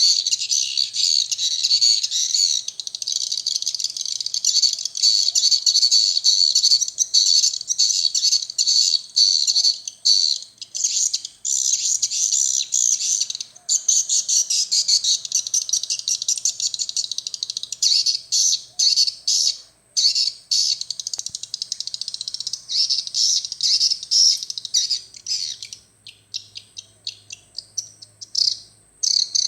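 Swiftlet calls: dense, rapid twittering and chirping from a swiftlet house's lure-call playback, mixed with the swiftlets flying around the house. The chirping thins out into shorter, separate bursts near the end.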